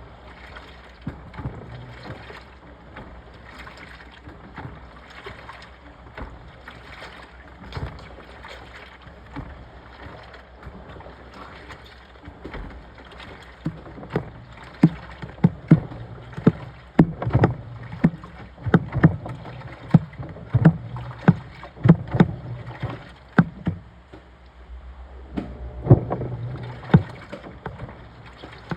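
Washing machine running with water sloshing in the drum. About halfway through, a run of repeated thumps begins, roughly one or two a second, pauses briefly, then returns near the end.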